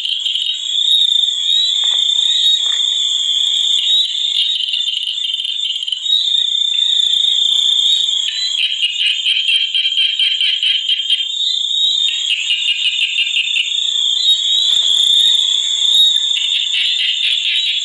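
Chorus of frogs and insects: a steady, high-pitched insect trill with trains of rapid pulsing croaks that come and go, in longer stretches in the second half.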